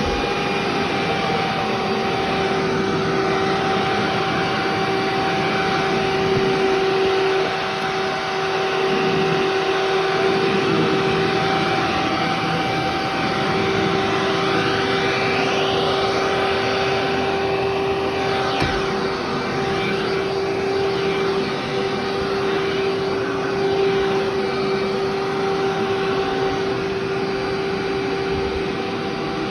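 Vacuum cleaner running steadily on a carpet left three months without vacuuming, with a constant motor whine over a rushing airflow noise. Partway through there are a few rising and falling pitch sweeps.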